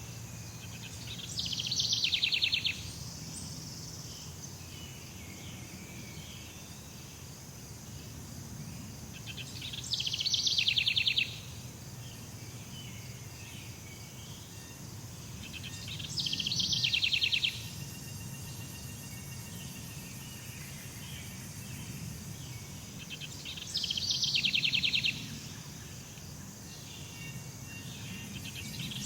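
Jungle ambience: a steady high-pitched insect drone with a loud, rapid buzzing trill that swells and then stops abruptly, repeating about every seven seconds.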